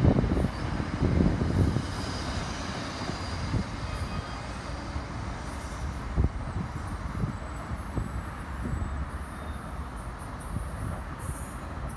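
NJ Transit commuter train rolling on the rails: a low rumble that is loudest for the first couple of seconds, then eases to a steady lower level, with a faint high wheel squeal a couple of seconds in and occasional short knocks.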